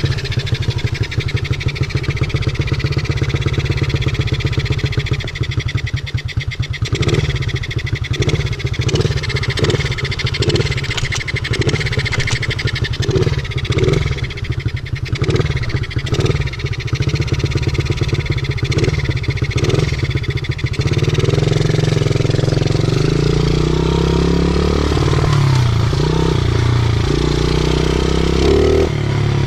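50cc pit bike engine running under way, close to the microphone. Its note holds fairly steady at first and is chopped by pulsing from about a quarter of the way in. In the last third the revs rise and fall repeatedly.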